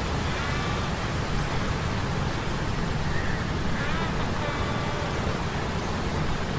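Sea storm ambience of steady rain and rushing wind over a low mechanical hum of metal gears, with a few faint short squeaks around the middle.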